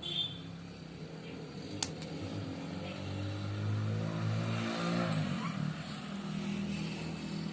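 A motor vehicle's engine passing by, growing louder and then falling in pitch around the middle. A single sharp click comes about two seconds in.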